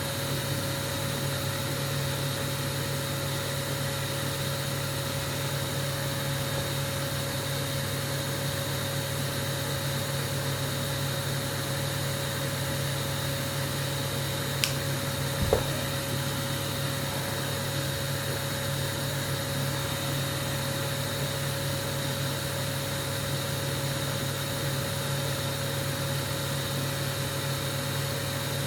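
Steady hum of a motor running, with a few fixed tones over an even noise, and two small clicks about halfway through.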